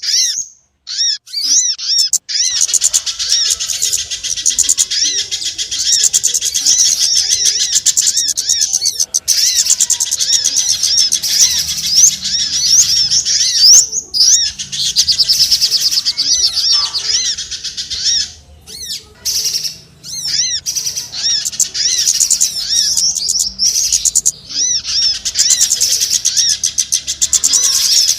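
Many small birds chirping in a dense, busy chorus of rapid high-pitched calls, as played for a bird-lure (pikat) recording meant to draw in small birds. There are short pauses about halfway through and again a few seconds later.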